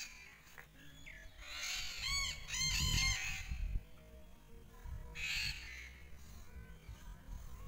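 A bird calling: a quick run of short, arched chirps about two to three seconds in. Hissy rustling noise comes and goes around it, once more about five seconds in.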